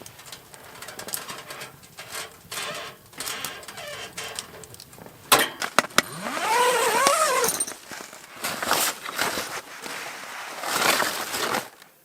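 Rustling of sleeping bags and clothing as campers stir and get up, in irregular bursts. There are two sharp clicks about five seconds in and a brief voiced sound with wavering pitch a second later.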